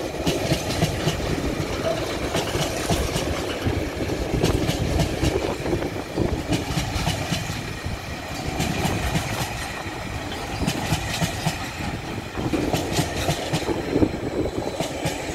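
Container wagons of a TasRail freight train rolling past close by: a steady rumble with irregular steel-wheel clicks and clatter over the rail joints.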